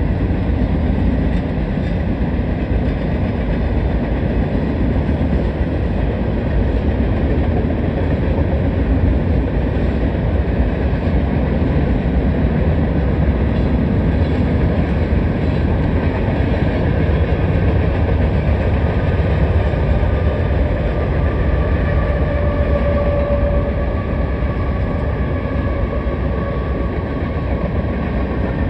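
Union Pacific manifest freight train's cars rolling past, a steady heavy rumble with clatter from the wheels on the rails. A faint high squeal comes in about three quarters of the way through.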